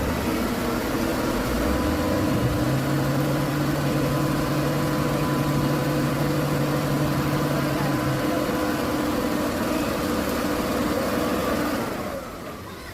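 Heavy diesel truck engine running loudly at steady revs, then falling away near the end.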